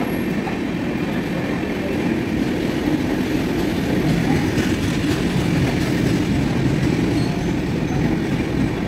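Passenger coaches of an express train passing at speed alongside a platform: the steady noise of wheels running on the rails.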